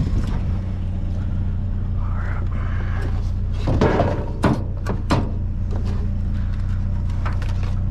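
Vehicle engine idling steadily, with a few sharp knocks and clatters between about four and five seconds in.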